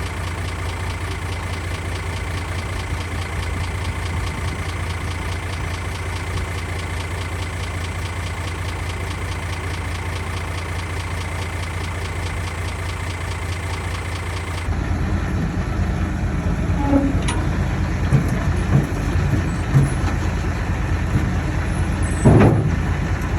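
Komatsu D31A bulldozer's diesel engine running steadily with a fast, even pulse. About two-thirds of the way through, the sound changes abruptly to a rougher engine sound with scattered knocks, and there is a brief loud knock near the end.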